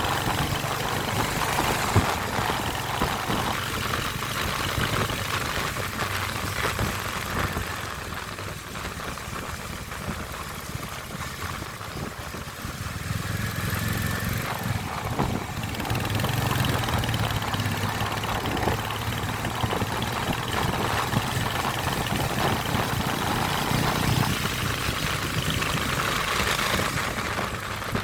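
Royal Enfield Hunter 350's single-cylinder engine running with a steady low hum under a broad hiss, easing off about a third of the way in and picking up again.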